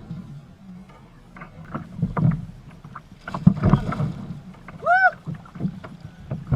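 Irregular knocks and bumps against a kayak hull, with one brief squeak about five seconds in that rises and then falls in pitch.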